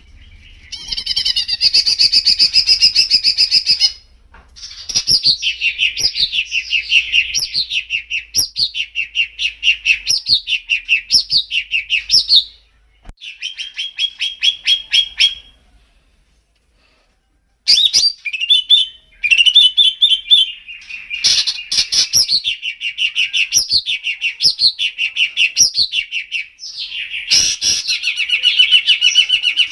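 Songbird singing long, fast phrases of rapidly repeated high chirping notes, with a pause of about two seconds a little past the middle.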